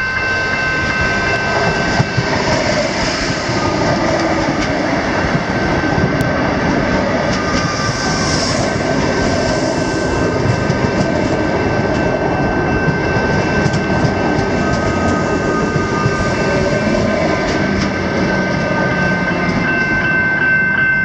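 Suburban electric train passing close by on the rails, wheels clattering, with the level crossing's electronic bells ringing steadily as a high tone under the train noise.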